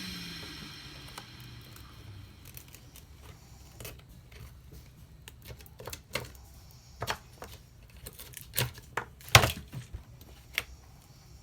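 Scattered small clicks and taps of metal hand tools on a disassembled smartphone, irregular, with the loudest tap about nine seconds in. A hiss with a falling whine fades out in the first second or so.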